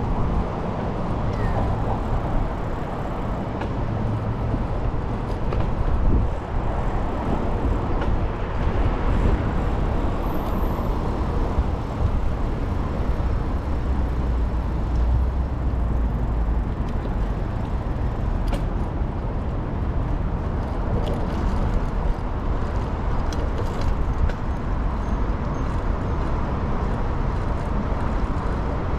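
Steady wind rumble on the microphone of a bicycle moving along a city waterfront trail, mixed with general road and street noise.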